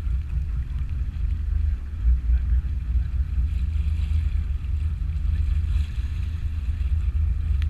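Steady low rumble of a fishing charter boat's engine running under way, with some wind on the microphone.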